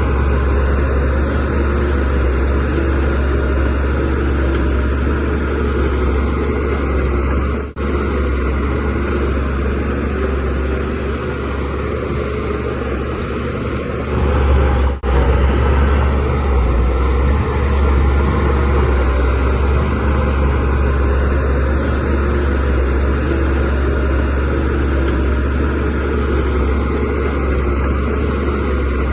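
Shantui DH17C3 Pro bulldozer's diesel engine running steadily with a deep rumble, broken by two very short dropouts about eight and fifteen seconds in.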